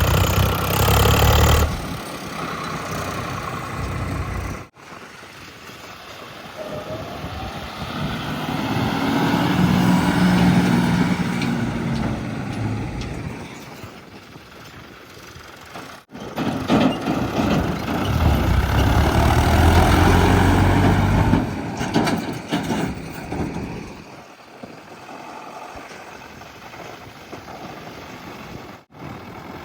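Heavy diesel engines of earthmoving and haulage vehicles running, revving up loud twice and easing back to a quieter run between, with the sound cutting off abruptly three times.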